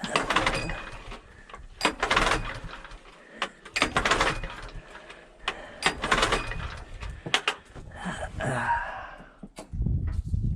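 Small gasoline engine being pull-started by its recoil cord, about five pulls roughly two seconds apart, each a short whirring crank that does not catch: the engine will not fire even after a primed carburettor bowl and starter fluid.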